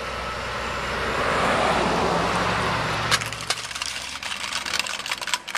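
A vehicle driving forward, its engine and tyre noise swelling and then fading. A sharp crack comes about three seconds in, followed by scattered small crackling clicks.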